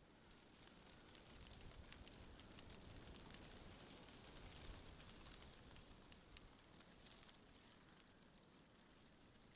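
Faint wind through trees, leaves rustling with many small dry ticks and crackles. It swells gently about a second in and eases off near the end.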